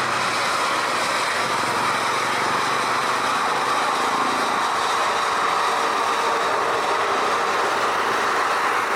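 Steady jet noise from an Airbus A350-900's Rolls-Royce Trent XWB turbofan engines, an even rushing sound with no change in level.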